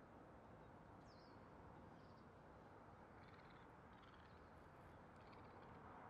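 Faint, high bird chirps scattered through a few seconds, beginning with a quick downward-sweeping note about a second in, over a steady low outdoor hiss.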